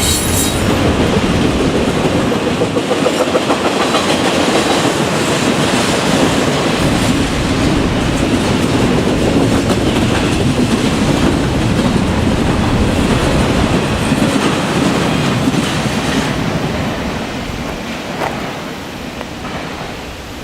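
Freight train cars rolling past close by, the wheels clacking over the rail joints in a steady loud rumble that starts to fade about three-quarters of the way through.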